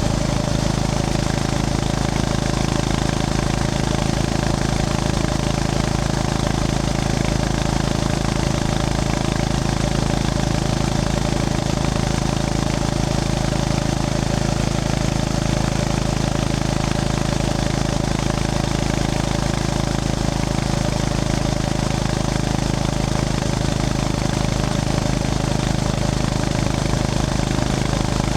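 Honda GB350S's air-cooled single-cylinder engine running at steady revs while the bike is ridden, with a steady rush of wind noise.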